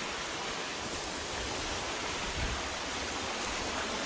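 Steady rushing of river water, an even hiss and rumble without a break, from a river running high after heavy rain.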